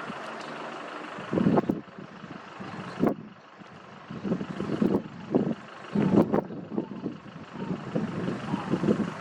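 Wind buffeting the microphone in irregular gusts over a steady background rumble.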